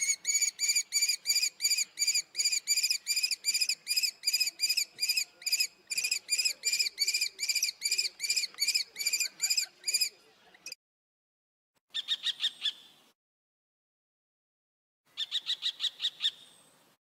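Common kestrel calling: a long, even series of shrill repeated notes, about three a second, for some ten seconds. After a pause come two shorter bursts of faster, higher-pitched calls.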